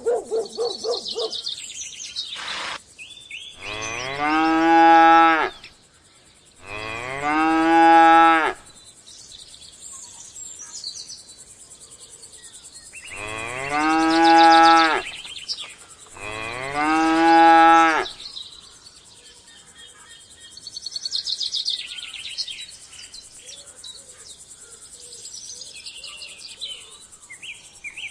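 Cattle mooing: four long moos in two pairs, with birds chirping faintly in between.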